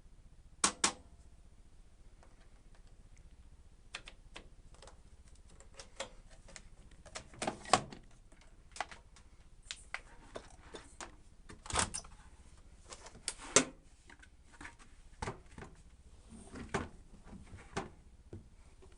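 Irregular sharp clicks and knocks, some in quick pairs, scattered through the stretch with no motor running.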